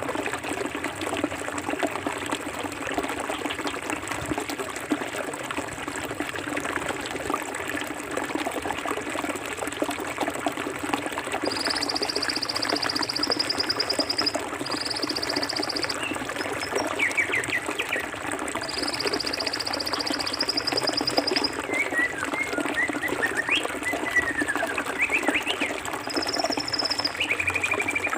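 Forest river flowing steadily, a constant rush of water. From about halfway through, birds chirp over it and a high, rapid trill comes and goes several times.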